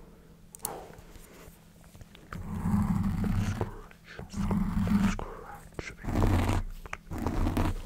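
A person's low, growling vocal sounds close to the microphone, four times in a row, with small mouth clicks between them.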